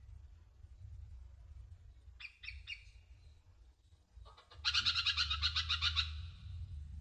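Sunbird song: a few short sharp chirps, then about four seconds in a loud, rapid trill of about ten notes a second that lasts over a second and then fades, over a faint low rumble.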